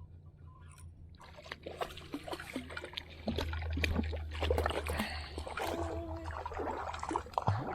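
Water splashing and trickling beside a kayak as a hooked small trevally thrashes at the surface while it is being brought in. The splashing gets busier and louder from about three seconds in.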